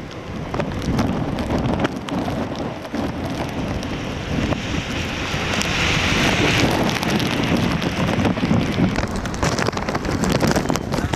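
Gusty wind rushing and buffeting the microphone in the tail of a hurricane, with a hiss of rain. A louder hissing gust comes about halfway through, and some crackling follows near the end.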